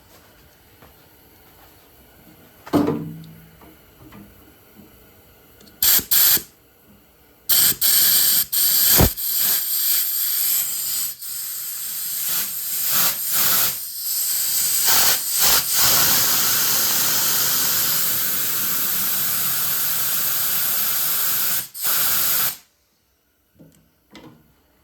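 Compressed air blowing through a disconnected fuel line to clear the fuel out of it. There are two short blasts, then a long loud hiss broken by brief pauses that cuts off suddenly. A single clunk comes a few seconds before the air starts.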